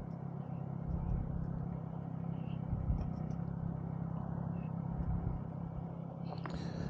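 Monkey bike's small engine running at a steady, even pitch while being ridden along.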